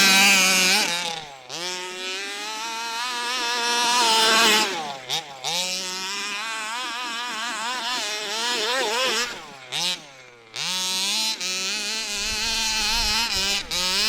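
The 29cc two-stroke engine of a 1/5-scale HPI Baja 5B gas RC buggy revving up and down in repeated bursts as the throttle is worked, with brief dips where the revs fall away about five seconds in and again around ten seconds in.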